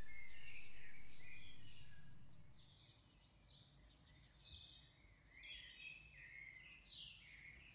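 Faint songbirds singing and chirping, several short calls overlapping throughout. A steady background sound fades out over the first two or three seconds, leaving the birdsong alone.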